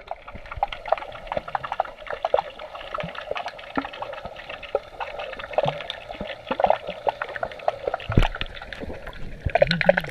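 Underwater pool sound picked up by a camera held below the surface: a muffled hiss full of dense crackling clicks and bubbling.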